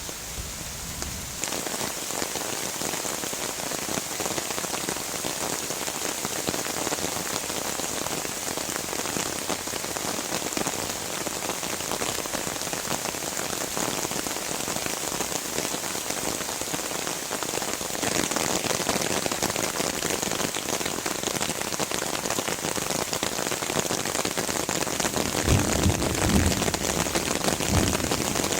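Heavy rain pouring down in a steady hiss, growing heavier about a second and a half in and again past the halfway point. A low rumble comes in near the end.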